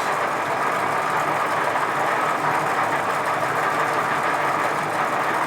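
Edgwick lathe running steadily under power, its motor and gear train giving an even whir while it screw-cuts a light first pass of an Acme thread with the leadscrew engaged.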